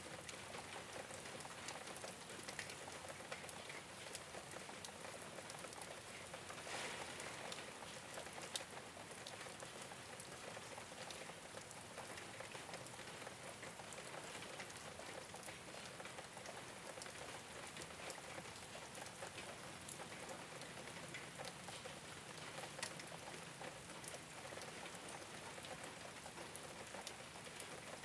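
Steady rain falling on a rooftop, an even patter with many separate drop ticks.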